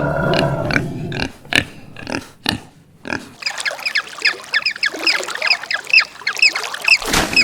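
Pigs grunting and oinking for about the first second, with sharp clicks and knocks. From about three and a half seconds in comes a rapid run of short, high chirps, and near the end a sudden burst of noise.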